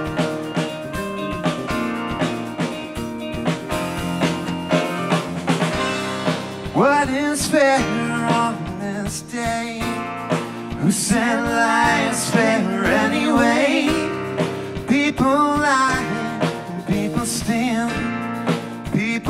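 A live rock band playing a song on drums, bass guitar, electric guitar and a Nord stage piano. A man's singing voice comes in about a third of the way through and carries on in phrases over the band.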